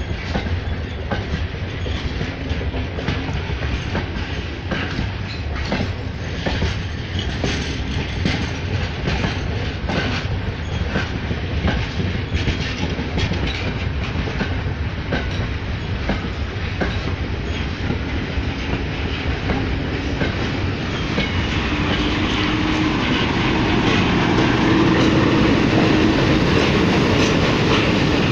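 Passenger coaches rolling past, their wheels clicking irregularly over rail joints over a low rumble. About three-quarters of the way through, the diesel engine of a Sri Lanka Railway M8 class locomotive comes in under the clicking and grows louder as the locomotive draws level.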